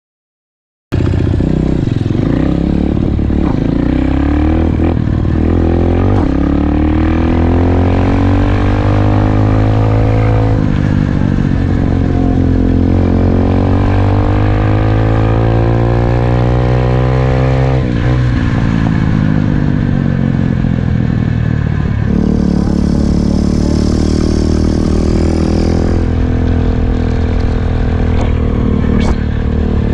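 SSR 125cc dirt bike's single-cylinder four-stroke engine running hard while ridden, starting suddenly about a second in. Its pitch climbs and then drops several times as it revs out and shifts gear.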